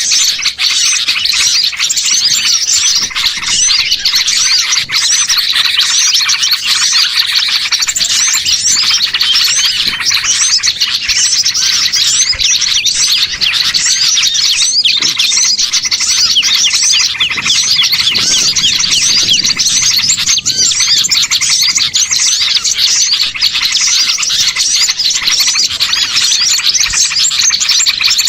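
Dense, continuous chorus of many small songbirds chirping and twittering over one another at a steady, loud level. It is a bird-lure (pikat) recording that layers the calls of many small birds to draw wild birds in.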